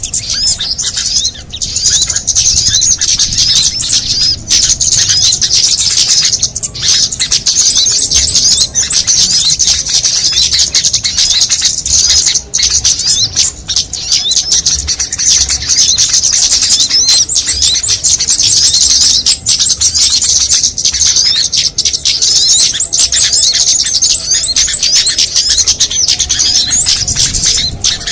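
Dense, continuous high-pitched chirping and trilling of many small songbirds, calls overlapping without pause: a mixed small-bird lure (pikat) recording used to draw in small birds.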